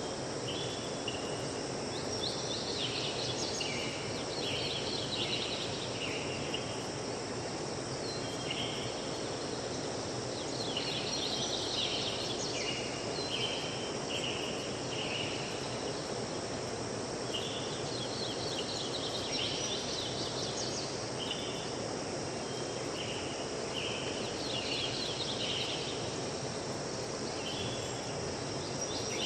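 Outdoor nature ambience: a steady rushing noise with repeated bouts of rapid, high chirping calls every few seconds.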